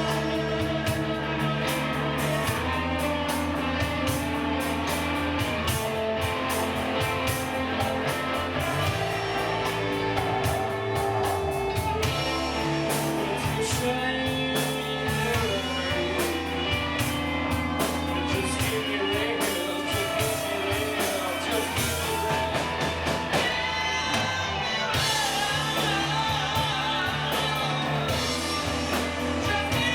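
Rock song with a singer over guitar and bass, playing steadily.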